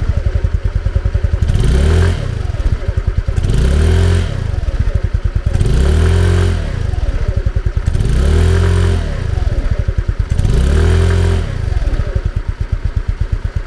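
Italika Vitalia 150 scooter's single-cylinder four-stroke engine, heard close at its stock exhaust, revved up to high rpm and let back down five times in a row. The exhaust note stays soft and muffled even at high revs, with the engine's mechanical noise never rising above it.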